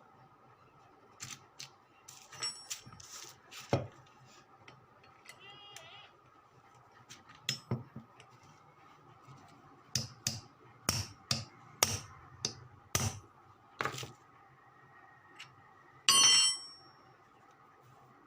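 Sharp metal taps and clinks of tools and parts during work on a washing machine motor's bearing, coming irregularly with a quicker run of knocks in the middle. Near the end comes one louder clink that rings.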